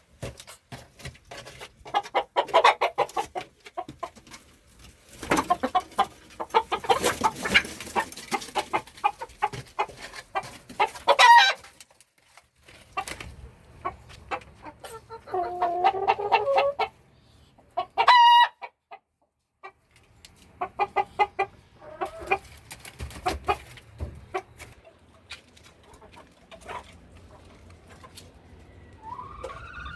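Domestic chickens clucking in bursts of rapid clucks. There is a loud squawk about a third of the way in, and a longer drawn-out call followed by a short high call around the middle.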